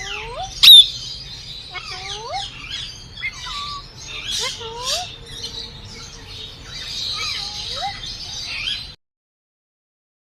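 Many aviary birds calling together: repeated short rising whistles, chirps and squawks, with one loud shrill call under a second in. The sound cuts off suddenly near the end.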